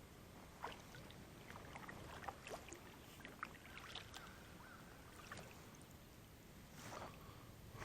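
Faint lapping water with scattered light ticks and knocks.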